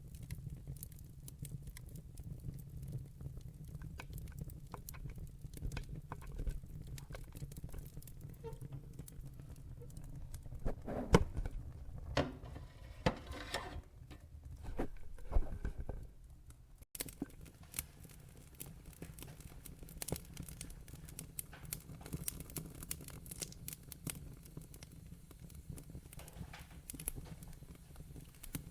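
Wood fire in a fireplace crackling: a steady low rumble with many small scattered pops, louder snaps about eleven and fifteen seconds in, and a short hissing stretch between them.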